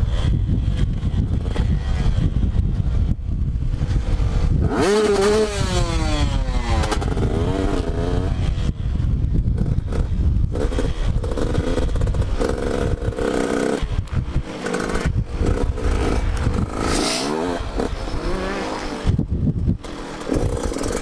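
Two-stroke motocross bike being ridden, its engine revving up and down with the throttle. About five seconds in it rises sharply and then falls away in pitch, over a heavy low rumble.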